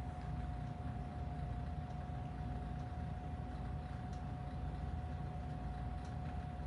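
Steady low background hum with a thin, steady tone above it, unchanging throughout.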